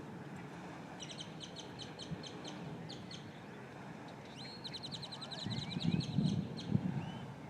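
A flock of small birds chirping in quick runs of short, high, repeated calls: about five a second starting about a second in, then a faster, denser run midway with a rising whistle. A low, rough noise joins near the end.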